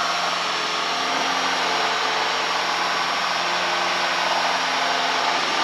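Piper Lance's six-cylinder piston engine and propeller running steadily at climb power, heard as a constant drone inside the cabin.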